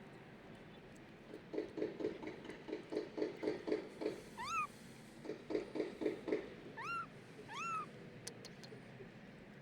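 Kitten meowing three times, short high calls that rise and then fall, the first about four seconds in. Before the meows come two runs of quick, low, pulsing sounds, about six a second.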